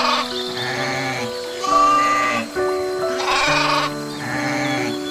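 Sheep bleating twice with a quavering call, once right at the start and again about three and a half seconds in, over background music with sustained notes.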